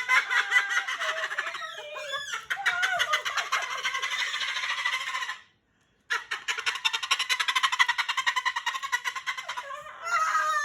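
Moluccan cockatoo chattering fast and loud, a long run of rapid pulsing calls broken by a brief silence about halfway through, then a few short calls that rise and fall in pitch near the end.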